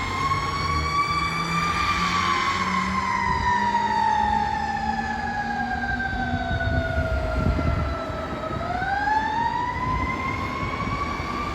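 Fire truck siren wailing in one long slow cycle. The tone tops out about a second and a half in, slides down steadily for about seven seconds, then climbs back up near the end. The truck's engine runs underneath.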